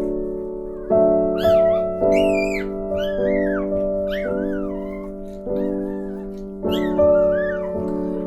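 Background piano music with a note struck about once a second, and over it a newborn mini goldendoodle puppy's high-pitched squeaky cries: several short squeals that rise and fall, from about a second in until near the end.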